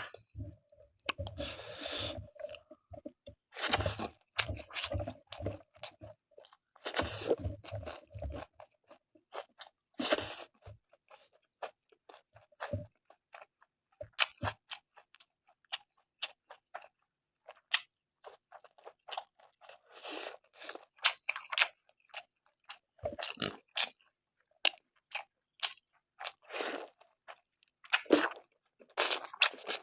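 Close-miked eating: a person chewing and crunching food in the mouth, with many short wet mouth clicks. The chewing is fuller and more continuous for the first several seconds, then thins to scattered clicks and crunches.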